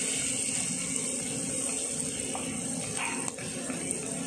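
Ginger-garlic paste sizzling steadily in hot butter and oil in a kadhai as it is stirred with a wooden spatula.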